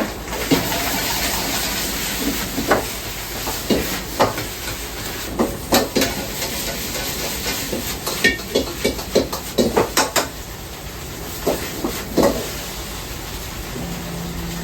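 Ramen kitchen at work: a hiss of steam or frying, strongest in the first couple of seconds, under a string of short clanks and knocks of pots, utensils and bowls that come thickest in the middle.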